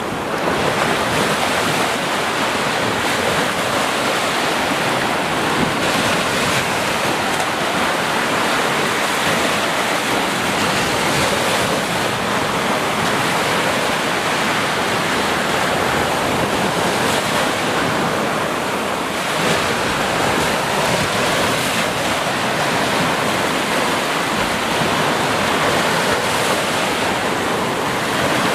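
Ocean surf washing onto a beach, a continuous, steady rush of waves with only slight swells.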